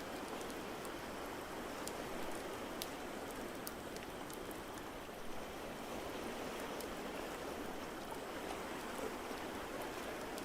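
Wood fire crackling with scattered sharp pops over a steady rushing wash of water noise.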